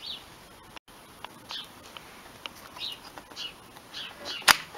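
A small bird chirping repeatedly in short falling chirps. Near the end there is a sharp metallic click as a small sliding bolt on a garden-railway bridge section is worked by hand.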